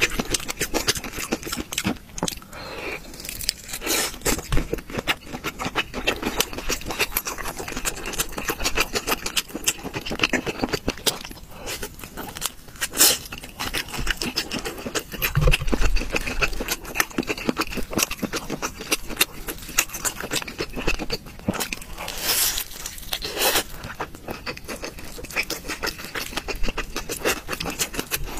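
Close-miked eating sounds: a person chewing and smacking food, with dense, irregular wet crackles and clicks and a few louder crunches.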